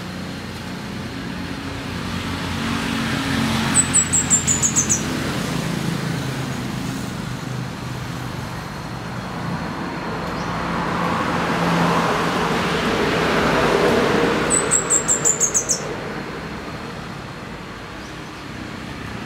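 Scarlet-headed flowerpecker giving two quick runs of very high, thin notes, each run stepping down in pitch, one about four seconds in and one near the end. Road traffic swells and fades twice underneath as vehicles pass.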